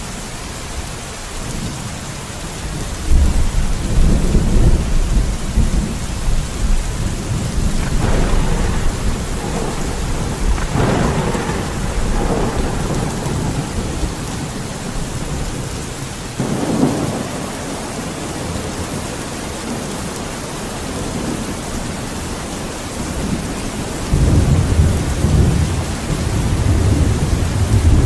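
Steady rain falling, with thunder rolling several times over it: low rumbles about three seconds in and near the end, and sharper peals around the middle.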